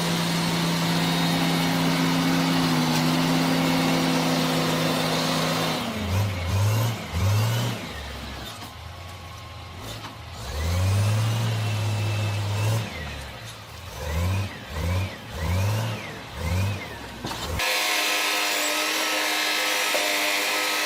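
Heavy-equipment engine running at a steady speed, then revved up and down in short repeated blips from about six seconds in. Near the end it cuts abruptly to a different steady engine hum.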